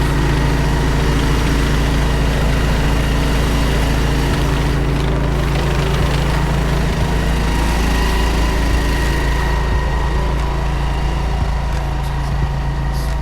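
Engine of a sewer hydro-jetting rig running steadily while the line is flushed.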